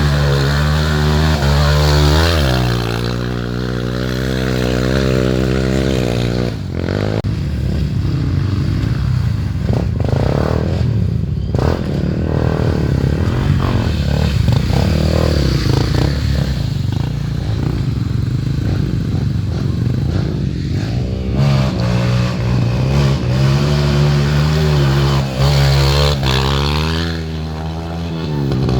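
Off-road trail motorcycle engines running and revving, their pitch rising and falling repeatedly, with a rougher, noisier stretch in the middle.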